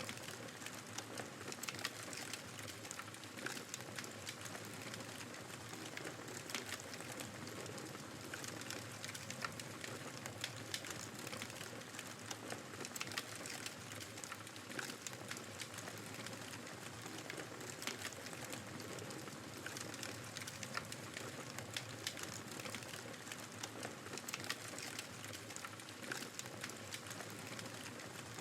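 Wood fire crackling in a fireplace, with frequent irregular sharp pops, over the steady rushing noise of blizzard wind.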